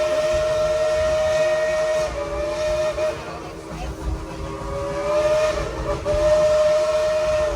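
Steam locomotive's whistle blowing a steady chord of several tones in two long blasts, the first about three seconds long, a weaker stretch between, then the second about three seconds long.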